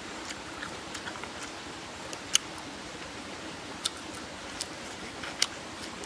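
Close-up eating sounds: chewing, with short sharp clicks and crunches from the mouth and a fresh lettuce leaf, over a steady background hiss. The loudest clicks come a little past two seconds in and again near the end.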